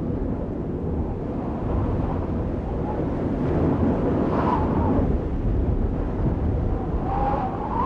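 Steady, fairly loud low rumbling noise, the room noise of a large hall or wind and handling on the microphone, with a few faint pitched snatches that may be distant voices about four and a half and seven seconds in.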